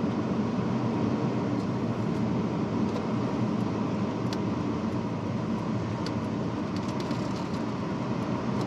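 Supercharged 3.2-litre V6 of a 2005 Chrysler Crossfire SRT-6 running at a steady pace with the car under way, mixed with road noise, with a few faint ticks.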